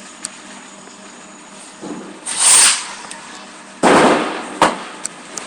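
A firework going off: a short hiss about two seconds in, then a loud bang that fades over about half a second, a sharper crack right after it, and two faint pops near the end.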